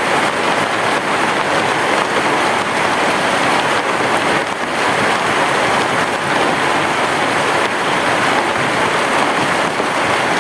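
Heavy rain falling steadily on a roof, an even, unbroken wash of drops with no thunder.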